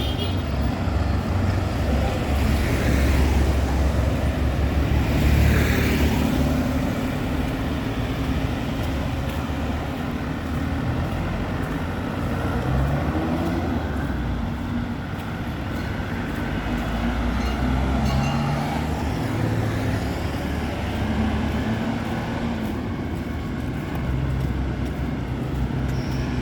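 Town street traffic: engines running steadily, with vehicles passing close by about 3 and 6 seconds in.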